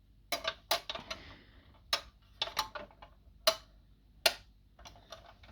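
About ten irregular, sharp clicks and taps from die-cast model vans being handled on a surface.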